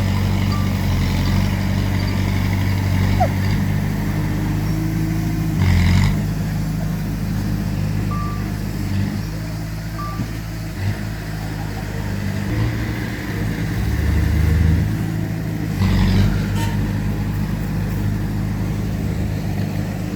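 Heavy diesel earthmoving machinery running, its engine note shifting as it works, with two louder clanks about six and sixteen seconds in.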